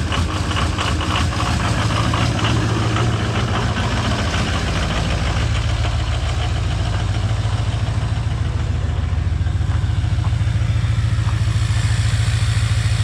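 Ford 6.0L Power Stroke V8 turbodiesel idling in the freezing cold just after a cold start, running a little rough ('a little grumpy'). The clatter is strongest for the first few seconds, then the idle steadies.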